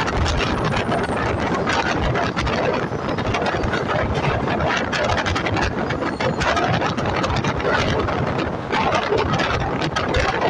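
Passenger train running, heard from aboard the coach: a steady rumble of wheels on the track with many small rattles and clicks, and rushing air.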